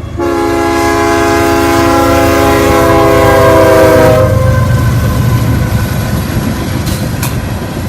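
Diesel freight locomotive's multi-chime air horn sounding one long blast of about four seconds, dipping slightly in pitch as it ends, followed by the low rumble of the train.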